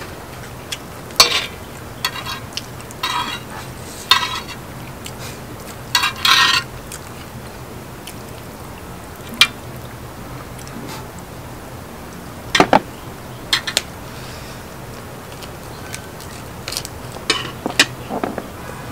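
Eating utensils clinking and scraping against a dish while food is stirred and picked up, in scattered short clicks and scrapes, the longest about six seconds in and several close together near the end.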